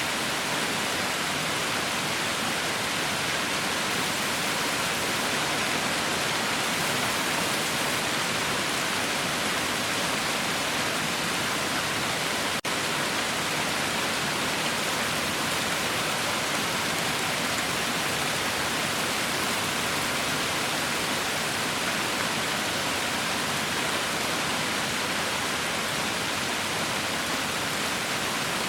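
Heavy rain falling, a steady, even hiss with no let-up, broken once by a brief dropout about halfway through.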